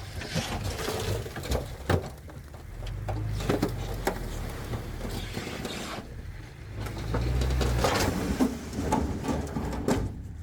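Diesel engine of heavy earthmoving machinery running, swelling louder twice, with scattered clanks and knocks.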